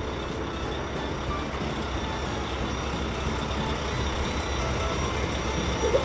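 Heavy truck engine running steadily, a low rumble that holds even with no change in pitch.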